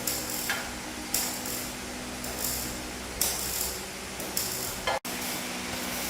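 Workshop tool work: a handful of short, sharp metallic strokes, irregularly spaced, over a steady machine hum, with a brief dropout about five seconds in.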